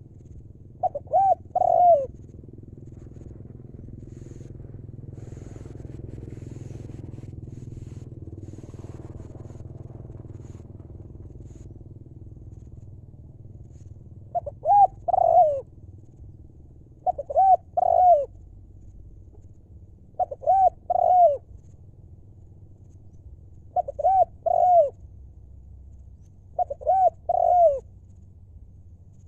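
Spotted dove cooing: short phrases of a few falling coo notes, one near the start and then repeated about every three seconds from halfway on. A low rumble swells and fades in the middle.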